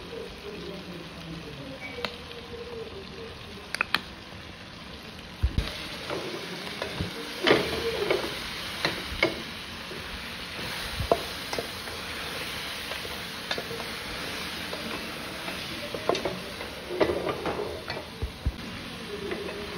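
Pork sizzling as it wet-fries in a stainless steel pot, stirred with a wooden spoon that knocks and scrapes against the pot at irregular moments. The sizzling grows louder about five seconds in.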